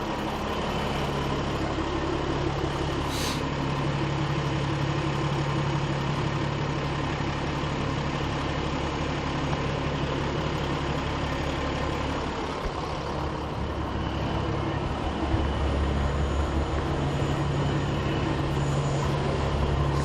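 Large diesel rally trucks' engines running at the start line, a steady low rumble and hum. A brief hiss about three seconds in, and the deepest rumble grows louder about three quarters of the way through.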